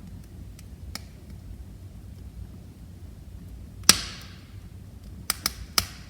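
Wood fire crackling: a low steady rumble of flames with scattered small snaps, one loud pop about four seconds in trailing off in a brief hiss, then three quick snaps near the end.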